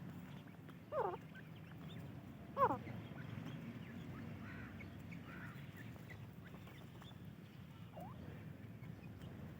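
Francolin chicks calling: two loud gliding calls about one and two and a half seconds in, and a fainter one near the end, with soft short chirps throughout over a low steady hum.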